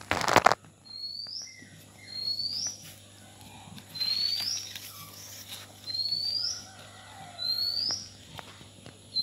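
A bird's short, high, upward-curling chirp, repeated steadily about once a second. A brief loud rustle comes about half a second in.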